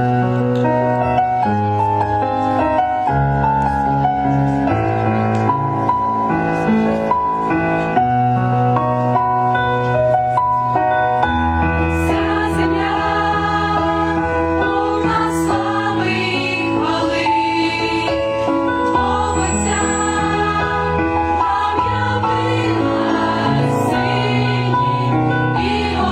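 Church choir singing a Christmas carol with musical accompaniment, the voices most prominent in the second half.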